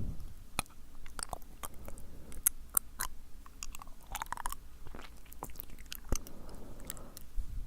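Close-miked wet mouth sounds: irregular tongue clicks and lip smacks, several a second, with a longer wet smacking run about four seconds in.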